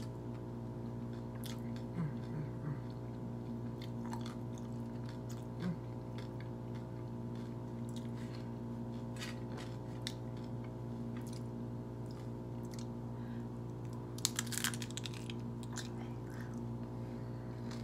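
A person chewing a mouthful of salmon taco, with scattered wet mouth clicks and a short burst of louder bites and crunching about fourteen seconds in, over a steady hum.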